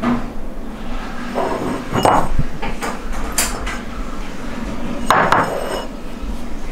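Hard objects clinking and knocking: a handful of sharp strikes with a short high ring after them. The strongest come about two seconds in and again about five seconds in.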